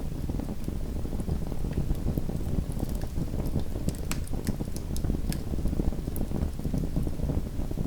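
Small wood fire crackling in a fireplace: a steady low rumble of burning with sharp pops and snaps scattered over it, several coming close together in the middle.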